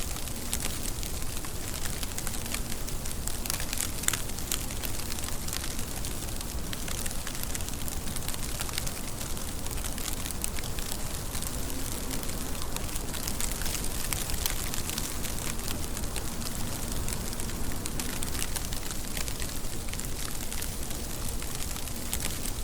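Steady rain falling, a dense patter of close drop hits over a constant hiss.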